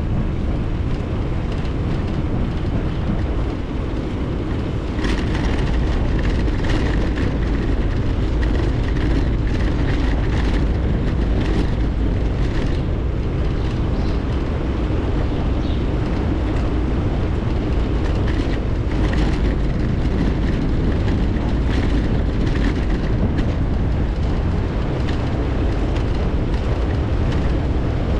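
Wind rushing over an action camera's microphone and tyre rumble from a bicycle being ridden, a steady low noise that gets a little louder about five seconds in. From then on, frequent short clicks and rattles of the bike run through it.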